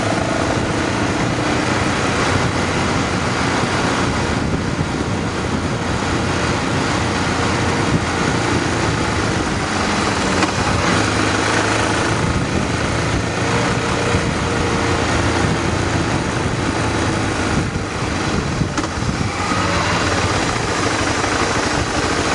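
Motorcycle engine running steadily under way, with a constant rushing noise over it.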